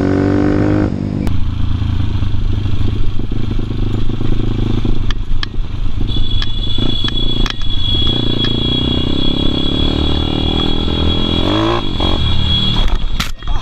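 Motorcycle engine revving up briefly, then running steadily at low revs. A steady high-pitched whine joins about halfway through.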